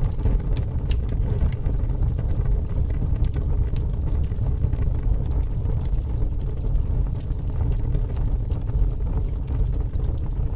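Fire burning with a steady low roar and many small sharp crackles and pops at irregular times.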